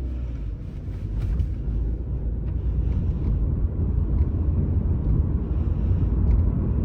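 Low rumble of a car's engine and tyre noise heard from inside the cabin, growing louder as the car picks up speed.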